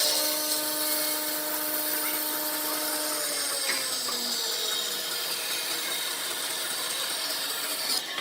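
Woodturning lathe running, its motor whining steadily over the hiss of a tool cutting the spinning wood. The whine drops in pitch about three seconds in.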